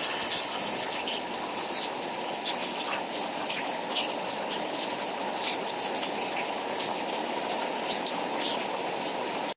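Heavy rainstorm: a steady rushing hiss of downpour with scattered sharper drop hits.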